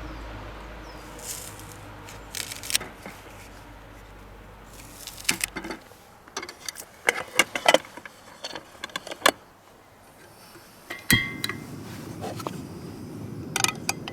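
Small objects being handled by hand: a run of light clicks and clinks, then a sharper knock with a short metallic ring about eleven seconds in, and a few more clinks near the end.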